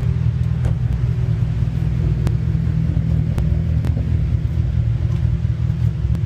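Cadillac ATS-V's twin-turbo V6 running at a steady idle in track mode, a deep, even exhaust note from a car with a ZZP cold air intake and tune.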